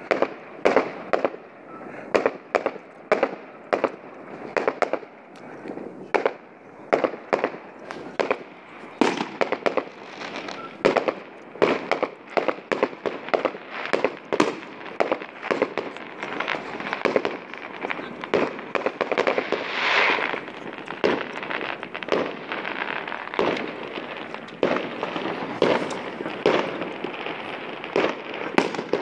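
Several fireworks displays going off at once: a constant, irregular run of sharp bangs, about one or two a second, over a steady crackle.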